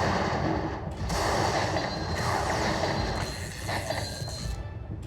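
Lightning Dollar Link slot machine sound effects at the close of a bonus round, over the din of a casino floor.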